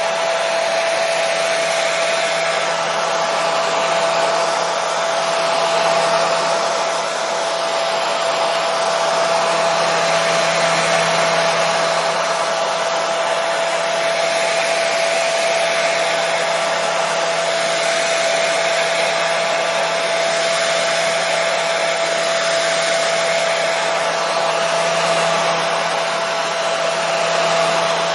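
Hair dryer running steadily: an even airflow rush with a constant motor hum, used as white noise.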